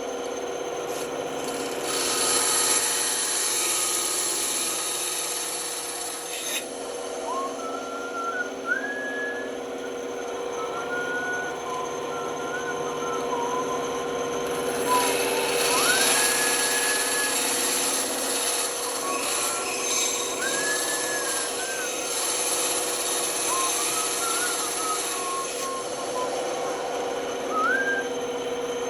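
Band saw running with a steady motor hum, its blade cutting wood with a hiss that swells about two seconds in and again about fifteen seconds in. Short high tones that slide up and down come and go over it.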